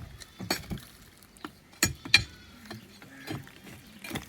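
Irregular sharp knocks and clinks of demolition work on a brick wall. The loudest are two close strikes about two seconds in.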